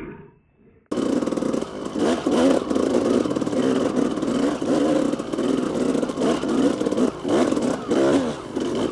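Single-cylinder dirt bike engine being ridden off-road, revving up and down over and over as the rider works the throttle. It comes in about a second in, after a brief gap.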